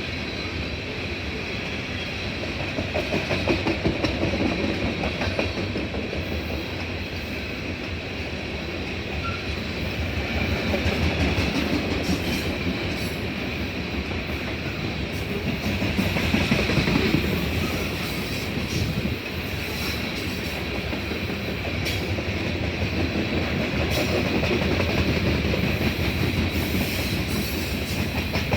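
A train rolling past, its steel wheels clicking over the rail joints in an irregular run of clacks over a steady rumble that swells and eases.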